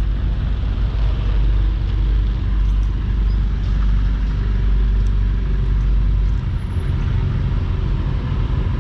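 Car engines running as cars roll slowly past at low speed, a steady low engine sound.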